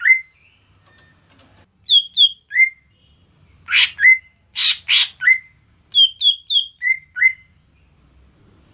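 Green leafbird (cucak ijo) singing: short whistled notes that slide downward, in quick groups of two or three, with two louder, rougher notes around the middle. A steady high hiss runs underneath.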